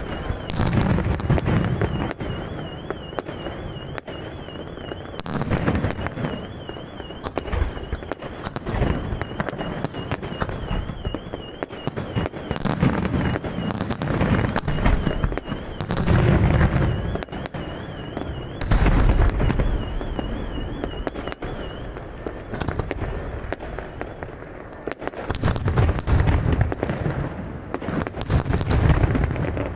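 Aerial fireworks display: shells bursting in rapid succession with dense crackling and popping and repeated deep booms. The booms come in loud clusters near the start, around the middle and again near the end.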